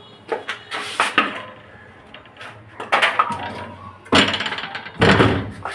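Irregular knocking and clattering: a run of sharp hits and rattles, the loudest about four and five seconds in.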